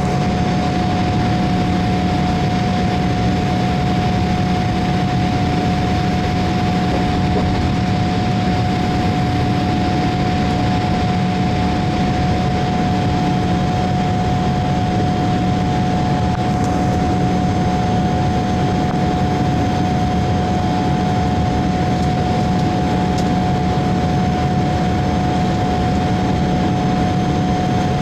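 Boeing 787-8's Rolls-Royce jet engines running steadily: a constant high whine and a lower hum over an even rush of noise, with no change in power.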